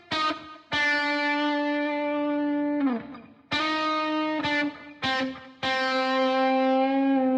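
Background music: a distorted electric guitar playing a few long held notes, one of them bending down in pitch about three seconds in.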